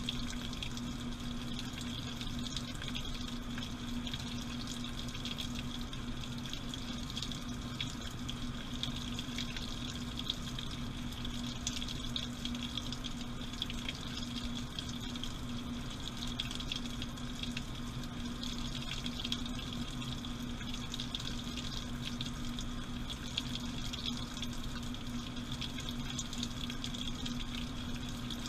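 Washing machine running, heard from inside the drum: water running and swishing over a steady mechanical hum, unchanging throughout.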